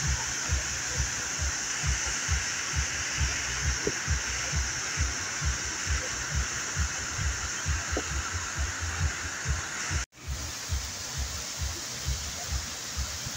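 Waterfall: a steady rush of falling water with irregular low thudding underneath. The sound cuts out for an instant about ten seconds in and resumes.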